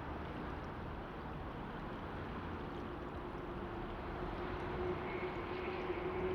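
Steady outdoor rushing noise, with a distant engine hum that comes in about halfway and grows louder.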